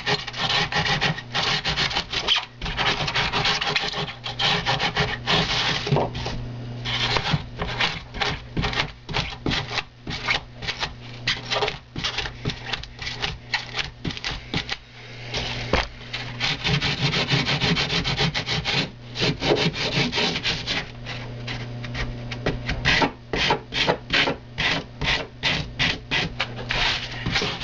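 Extruded foam board being carved and scraped by hand: a long run of quick, irregular scraping strokes, several a second, over a steady low hum.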